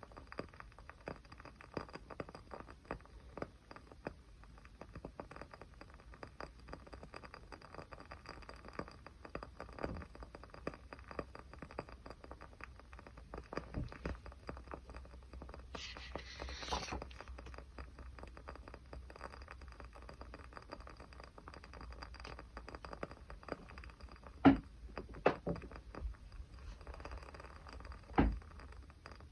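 Miniature campfire crackling: a continuous scatter of small irregular ticks, with a brief hiss about halfway through and a few louder pops near the end.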